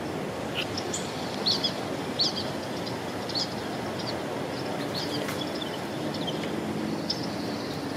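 Small birds chirping in short, scattered calls over a steady outdoor background hiss, with a faint low hum joining near the end.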